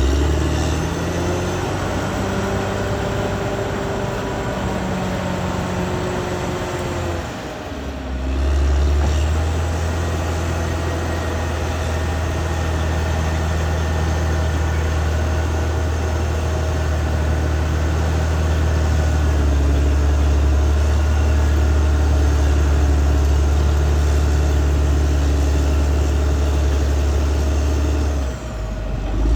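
Caterpillar D6R XL bulldozer's diesel engine running steadily while working, a deep continuous drone. It drops briefly about a quarter of the way in and comes back with a stronger low hum.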